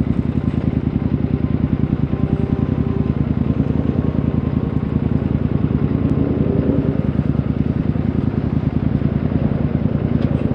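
Motorcycle engine running steadily, a fast, even pulsing whose pitch barely changes.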